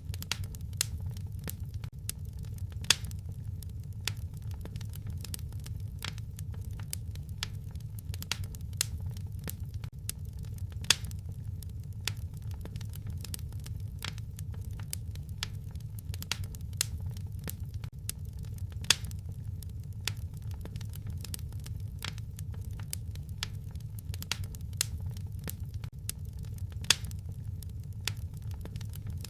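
Wood fire crackling: irregular small snaps and pops over a steady low rumble, with a louder pop about every eight seconds.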